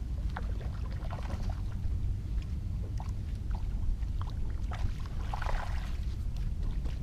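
Low, steady rumble of wind on the microphone with small, scattered splashes and lapping of water at the reservoir edge; a brief cluster of splashing about five and a half seconds in.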